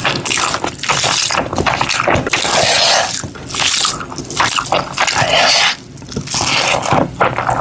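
Close-miked eating sounds: irregular crunching and chewing clicks mixed with short noisy bursts.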